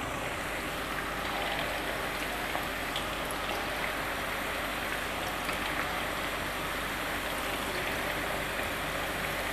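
Minced-meat kababs frying in hot oil in a pan: a steady crackling sizzle.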